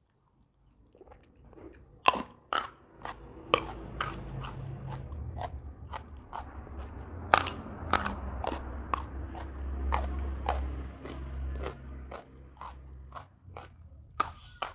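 Close-miked chewing of raw jengkol beans: sharp crunches roughly twice a second, starting about two seconds in.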